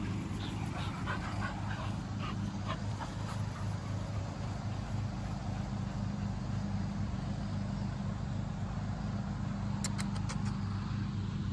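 Faint sounds of an American Bully puppy, over a steady low hum, with a few sharp clicks about ten seconds in.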